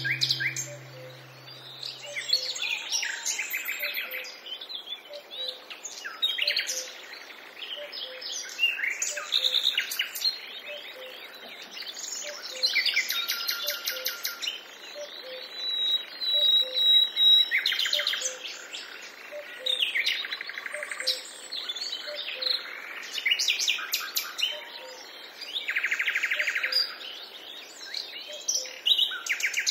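Several wild birds calling and singing at once, many overlapping chirps and quick trills, some louder and nearer than others.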